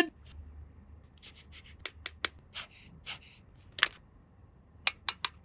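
Plastic toy pieces and packaging being handled: a scattering of light clicks and taps with a few short rustles and scrapes.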